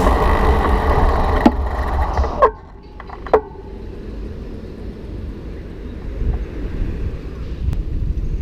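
Background music fading out about two and a half seconds in, leaving a steady low rumble of wind and road traffic noise from a moving bicycle, sped up.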